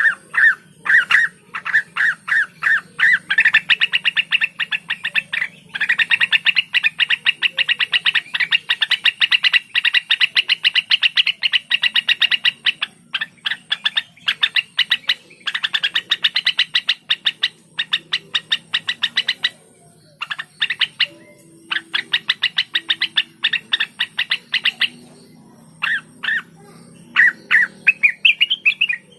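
Blue-winged leafbird (cucak wilis, rengganis) singing in long, rapid trills of repeated sharp notes, broken by short pauses and a few slower, spaced notes.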